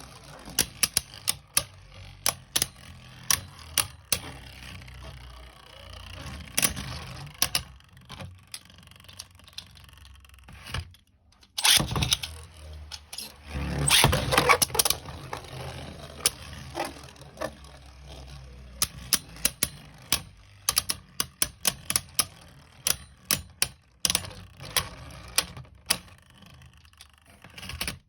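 Beyblade Burst QuadStrike spinning tops (Lightning Pandora and Harmony Pegasus) clattering against each other and the plastic stadium: a run of sharp clicks and knocks, with a louder, longer burst of rattling and scraping about 12 to 15 seconds in.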